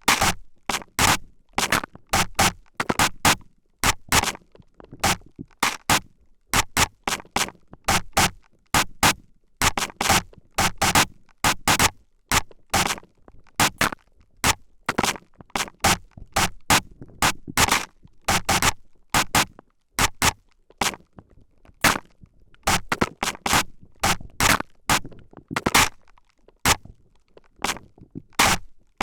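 Short hissing squirts from a spray bottle fired close against the microphone's ears, in quick irregular runs of about two to three a second with brief pauses.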